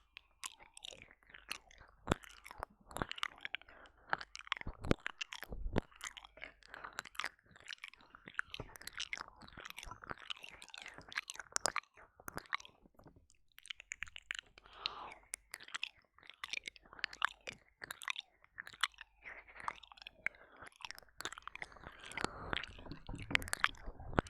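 Close-up wet mouth sounds of ASMR ear licking and ear eating into a binaural dummy-head microphone: irregular licks, smacks and kissing clicks, close and dense.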